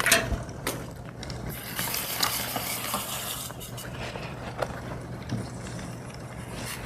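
Liquid nitrogen hissing as it boils off in a cup of chocolate being stirred with a spoon, with small clinks of the spoon against the cup. The hiss is strongest a couple of seconds in, then fades.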